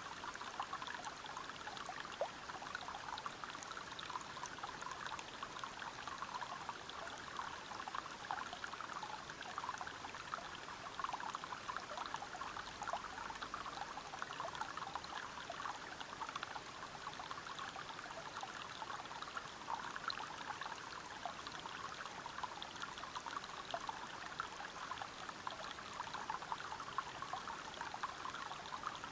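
Waterfall flowing steadily over rocks, an even splashing without breaks.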